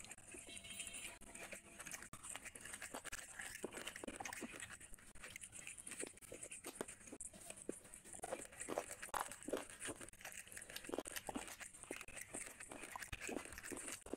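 A person biting and chewing a curried chicken leg by hand: irregular wet smacks, small crunches and tearing of meat, with fingers working rice on the plate near the end.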